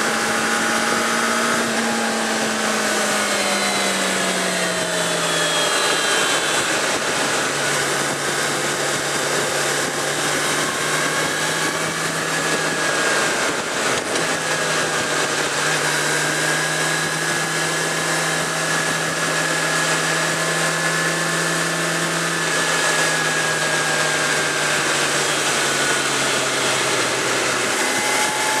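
Suzuki GSX650F inline-four engine running at road speed under a steady rush of wind noise. The engine note falls over the first few seconds as the bike slows, then holds fairly steady with small rises and falls.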